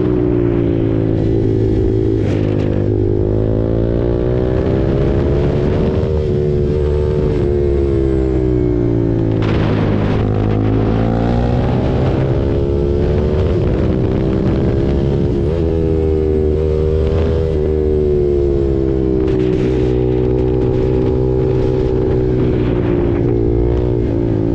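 KTM RC 390's single-cylinder engine through an SC-Project exhaust, running on the move with its note falling and climbing again several times as the revs change.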